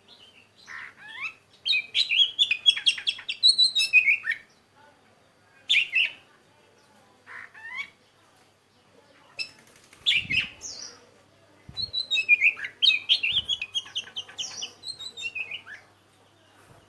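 Small birds chirping and twittering in quick runs of short, sliding notes, with pauses between the runs. Faint low knocks sound a few times in the second half.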